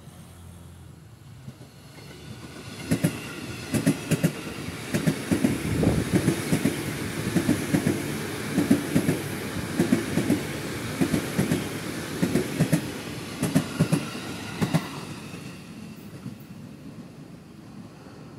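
Electric commuter train (KRL Commuter multiple unit) passing close at speed. Its wheels clack over rail joints in quick pairs for most of the pass. The rumble builds as it approaches, and the clacks stop about fifteen seconds in as the train draws away.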